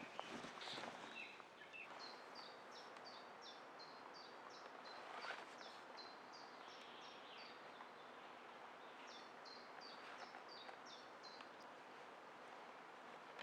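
A songbird singing two runs of quick, repeated high notes, each note sliding down, about three a second, over faint outdoor ambience. A few light clicks sound in the first couple of seconds.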